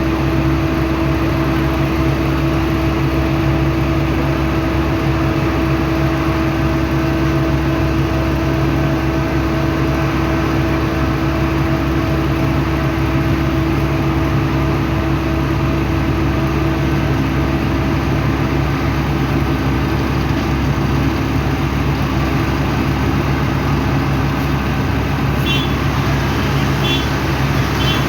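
A motor engine running at a steady speed: a constant drone with a few steady tones, never rising or falling.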